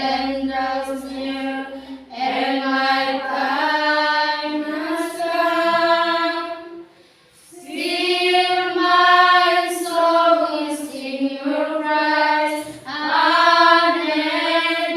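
Unaccompanied high singing voice holding long, slowly gliding notes in phrases of a few seconds, with short breaks between phrases.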